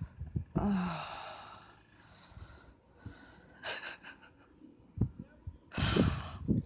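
A person sighing and breathing out audibly close to the microphone, three breaths, the first with a short falling voiced tone.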